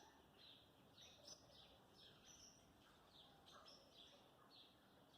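Faint birds chirping in the background: short, high chirps repeating irregularly, several a second.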